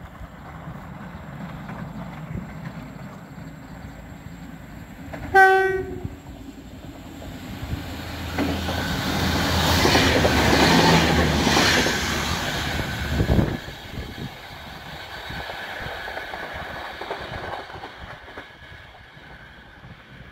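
Railway train approaching with a low engine rumble, sounding its horn in one short blast about five seconds in. It then passes close by with rising rail and wheel noise that drops off suddenly about thirteen seconds in, leaving a fading rumble.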